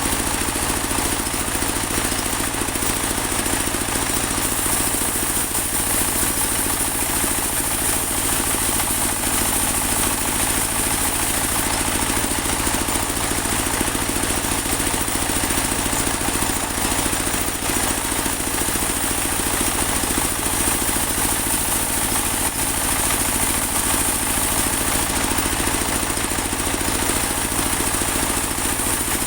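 Portable bandsaw mill running steadily, its engine and blade making an unbroken loud drone with a steady high hiss over it.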